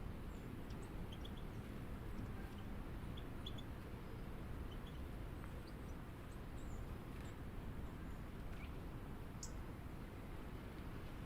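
Scattered short, high chirps of small birds, several a second at times, over a steady low outdoor rumble.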